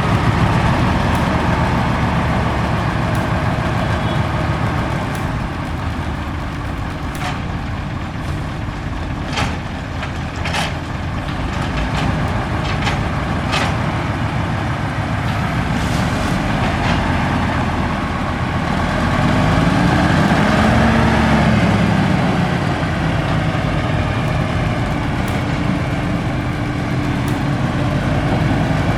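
Heavy diesel truck engine running steadily, with a few sharp knocks and clicks in the middle. About twenty seconds in it revs up and settles back.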